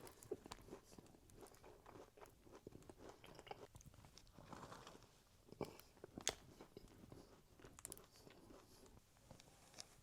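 Close-miked eating of a cookie: biting and chewing, with many small crunchy clicks and wet mouth sounds, and one sharper click a little past the middle.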